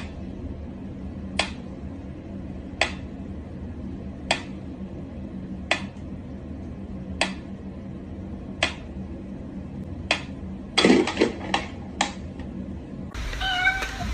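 Sharp single taps or clicks, like something hard knocking on a dish, repeating evenly about every second and a half over a steady low hum, then a quick run of several taps near the end.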